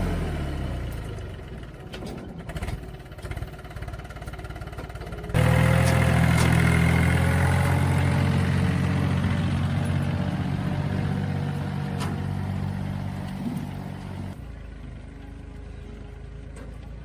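A motor vehicle engine running steadily, in separate cut-together stretches: a quieter run, then a louder steady run starting about five seconds in that drops away abruptly near the end.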